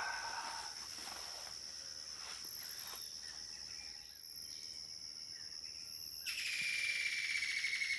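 Forest dawn chorus: insects keep up a steady high-pitched trill. About six seconds in, a louder pulsing animal call starts over it.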